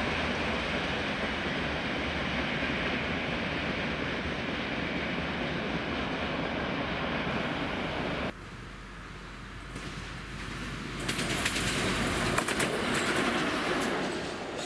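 Train running by with a steady rumbling rush that cuts off abruptly about two-thirds of the way through. A quieter train sound then builds back up, with rapid clicking and clatter near the end.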